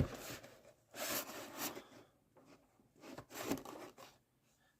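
Rustling and rubbing of packaging being handled, in three short bursts with pauses between, after a click at the start.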